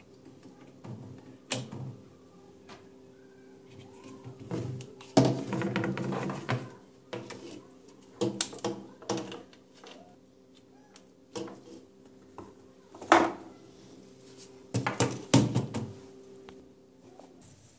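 Irregular knocks, clicks and clattering of hard objects being handled, in several loud clusters, over a steady low hum that stops near the end.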